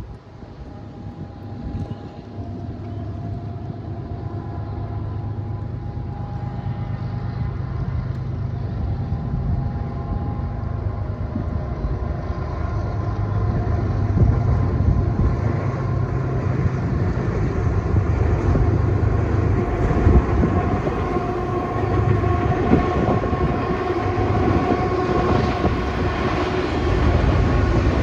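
Diesel-hauled freight train approaching, its locomotive engines droning and the rail noise growing steadily louder.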